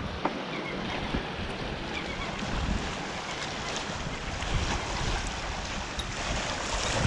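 Wind on the microphone, gusting low, over the steady wash of sea surf.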